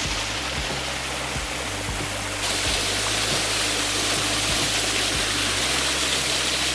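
Rushing water of a small waterfall and stream under soft background music with sustained low notes. The water gets louder about two and a half seconds in.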